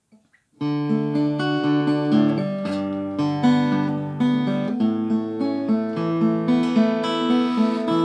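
Acoustic guitar starting about half a second in and playing the introduction of a folk song in the key of D, with picked and strummed chords over held bass notes.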